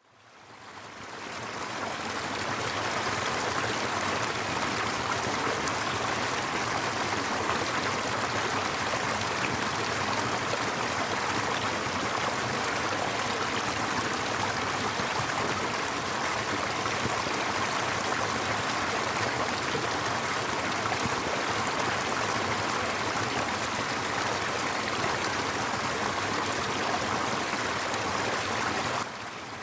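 Jungle river rushing steadily over rocks. It fades in over the first two seconds and drops quieter near the end.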